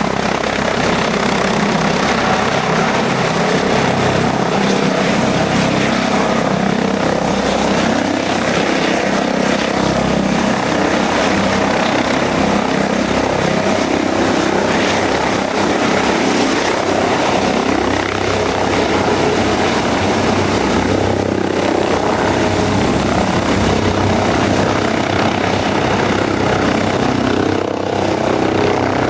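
Helicopter running close by: steady rotor and engine noise with a thin, steady high whine above it.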